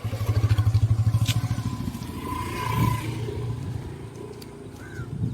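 A motor vehicle engine running with a pulsing low rumble, loudest in the first two seconds and then fading away.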